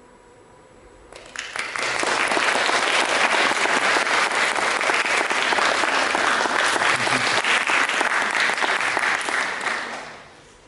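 Audience applauding, starting about a second in, holding steady and dying away near the end.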